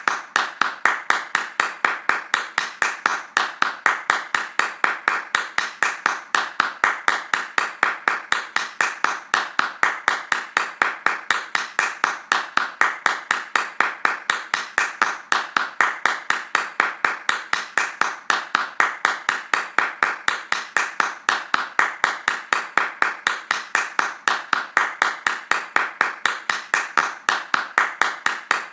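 Hand clapping in a fast, even, unbroken run of sharp claps at a steady loudness.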